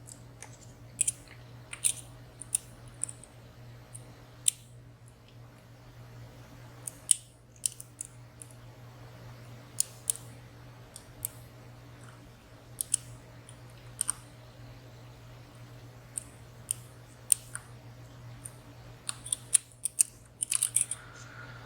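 Irregular, sharp metallic clicks and ticks of a lock pick and tension wrench working the pins and sliders inside a WSW W10 padlock, coming in a quick cluster near the end. A steady low hum runs underneath.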